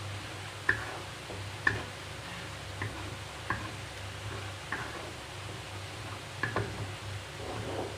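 Squid sambal sizzling in a pan while a spatula is stirred through it, knocking against the pan about once a second; the two sharpest knocks come about one and two seconds in.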